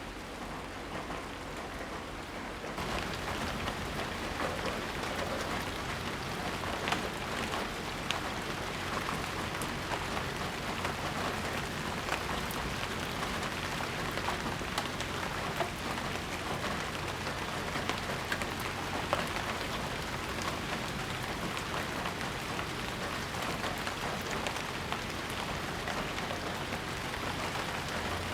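Steady rain falling, a continuous hiss with scattered individual drops ticking. About three seconds in, the rain sound steps up louder and brighter and holds there.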